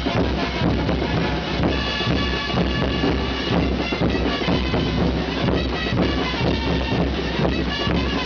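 Religious festival dance music: drums beating a steady rhythm, with high-pitched wind instruments playing held notes that come in about two seconds in.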